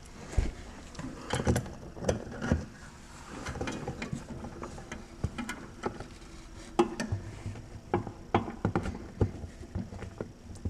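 Irregular clicks, knocks and rustles of hands and tools working in a car's front wheel well, pushing at the plastic wheel-well liner to make room for a wrench on the sway bar end link.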